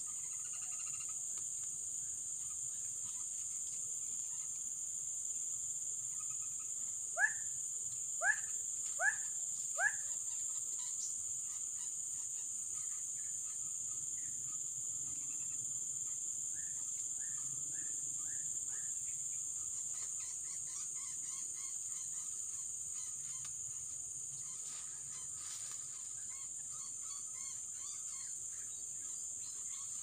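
A bird gives four loud honking calls about a second apart, each a quick upward sweep, then a softer run of short notes a little later, over a steady high drone of forest insects.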